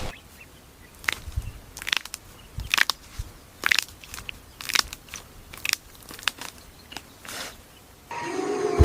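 An animal chewing: short, crisp crunches come irregularly, about one or two a second.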